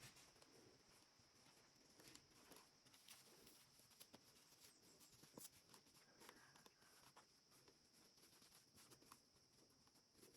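Near silence: faint scattered clicks and soft rustles over a steady high hiss.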